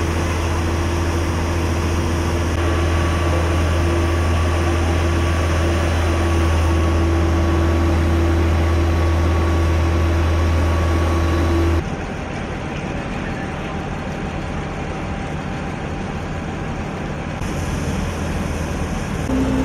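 Steady engine drone with a constant low hum. It changes abruptly about two-thirds of the way through to a quieter, different engine-like noise.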